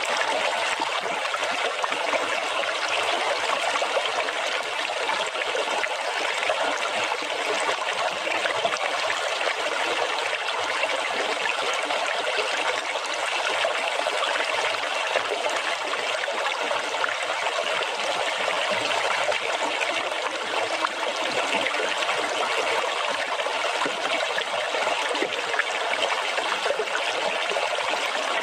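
Running water splashing and trickling steadily, a bright even wash with little low rumble.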